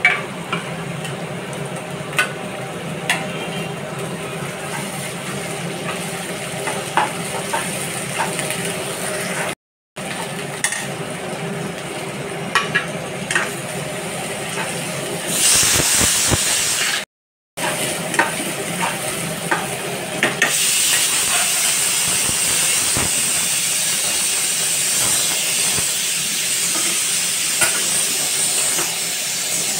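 Onions and dried red chillies sizzling in hot oil in a non-stick kadai, with scattered clicks and scrapes of a spatula stirring them. The sound drops out briefly twice. From about two-thirds of the way through, the sizzle becomes a louder, steady hiss as marinated chicken pieces fry in the pan.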